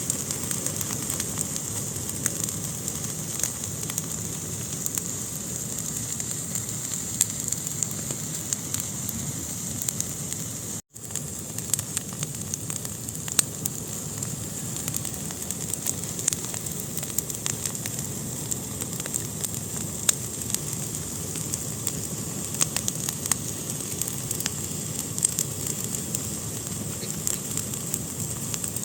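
Fire burning in a fireplace, crackling with frequent sharp pops over a steady hiss. The sound cuts out for an instant about eleven seconds in.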